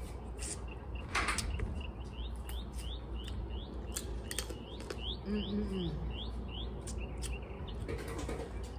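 A bird repeats a short rising chirp about three times a second for a few seconds. Under it come the sharp clicks and snaps of blue crab shell being cracked and picked apart by hand, with one louder crack about a second in.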